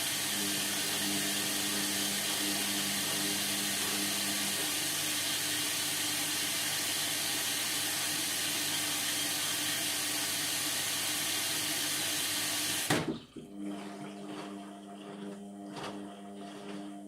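Indesit MTWC71252WUK washing machine taking in water: a steady loud hiss of water through the inlet that shuts off abruptly about 13 seconds in, leaving a low steady hum from the machine.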